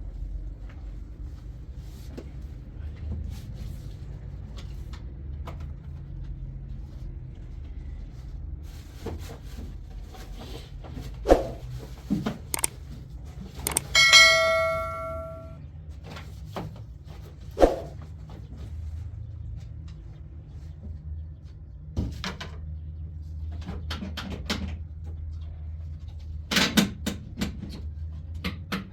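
Scattered knocks and clatter of household objects over a steady low hum. About halfway through, one struck metal object rings with several clear tones for about a second and a half.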